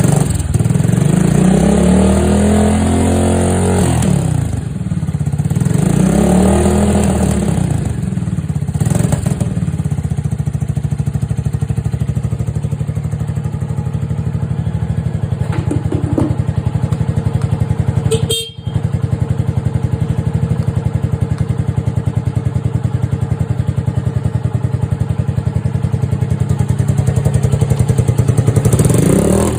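Honda SL230's single-cylinder four-stroke engine running through a SuperTrapp aftermarket muffler: revved up and down twice, then settling to a steady idle, with a brief break about two-thirds of the way through and another rise in revs near the end.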